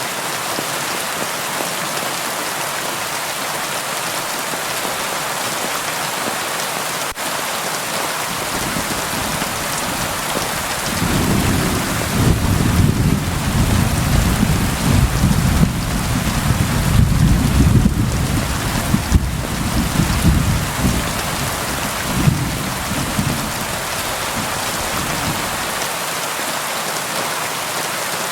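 Steady rain pattering on a window, with a long low rumble of thunder that comes in about a third of the way through, swells, and fades out a few seconds before the end.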